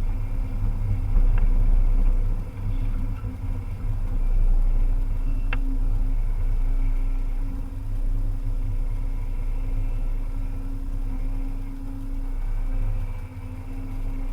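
Volvo EC300E excavator's diesel engine running as the machine works, a steady low drone that swells and eases, with one sharp click about five and a half seconds in.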